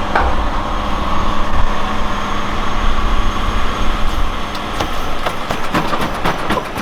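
A motor vehicle driving at a steady pace: a loud, even low rumble with wind and road noise, and a few short knocks or rattles near the end.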